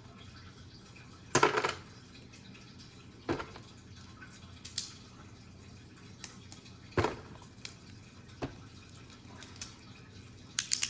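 Scattered small plastic clicks and knocks, about six spread over the stretch and the loudest about a second and a half in, as a Beyblade's parts are handled and reassembled to switch it from left to right spin.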